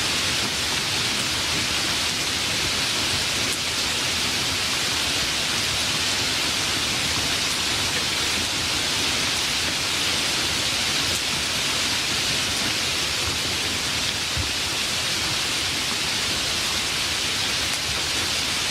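Steady heavy rain, an even hiss that does not change.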